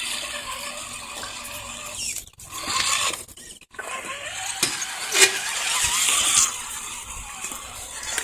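Axial SCX10 RC crawler's electric motor and gear drivetrain whirring as it drives, cutting out briefly twice in the first half.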